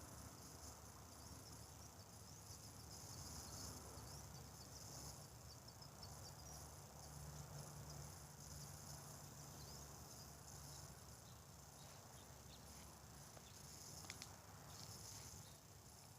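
Faint, steady, high-pitched chorus of insects chirping outdoors. A few faint taps come near the end.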